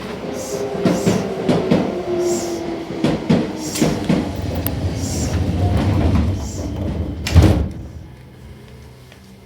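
Seibu New 2000 series commuter train standing at a station with its doors open: a run of knocks and clatter, then the sliding doors shut with one heavy thud about seven and a half seconds in, after which the car goes quiet.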